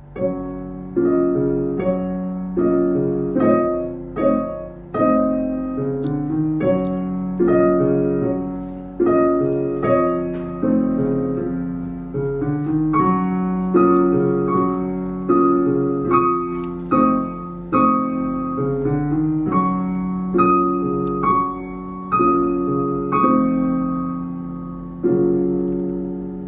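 Piano played four hands: a duet of chords and melody in a steady, repeated rhythm, each struck note ringing and decaying.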